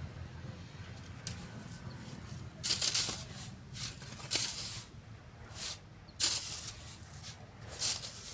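Sand being shovelled and sifted, heard as about six separate hissing pours at uneven intervals, the loudest about three seconds in and again about six seconds in. A steady low rumble runs underneath.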